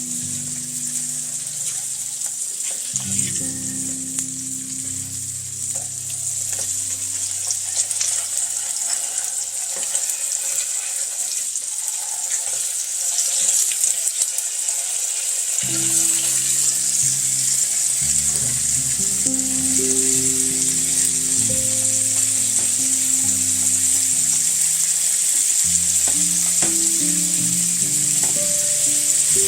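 Chicken pieces frying in butter and oil in a pan, sizzling steadily and growing a little louder, with background music playing.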